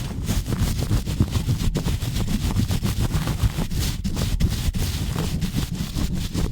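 Fast, rough handling directly on a bare microphone: rubbing and scratching on it give a dense low rumble, broken by many quick, irregular crackling scrapes.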